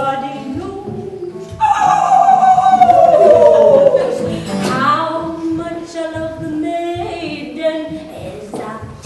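Folk singing: a voice holding a loud, long note that slides down in pitch about one and a half seconds in, followed by shorter held notes.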